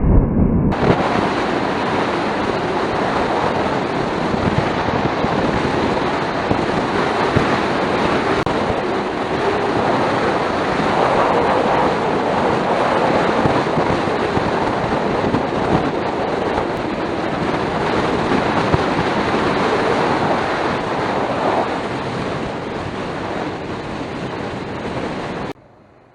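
Steady wind rush over the microphone of a camera on a moving motor scooter, a loud even noise with no clear engine note, starting just under a second in and cutting off sharply near the end.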